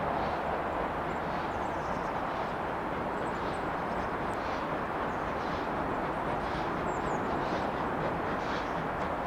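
Steam train running, heard as a steady, even rumble without distinct exhaust beats.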